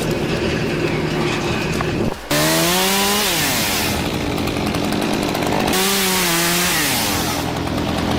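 Engine running hard at high revs, its pitch rising and falling in two surges, about two seconds in and again about six seconds in.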